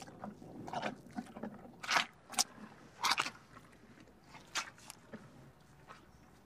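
White rhinoceros grazing: irregular crisp crunches as it crops and chews dry grass, thinning out toward the end.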